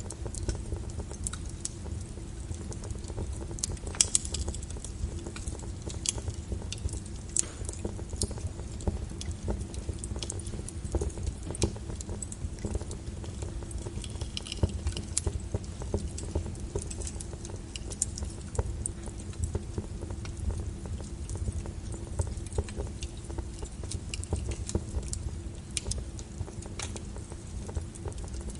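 Wood fire in a fireplace burning with a steady low rumble and irregular sharp crackles and pops, a few louder pops scattered through.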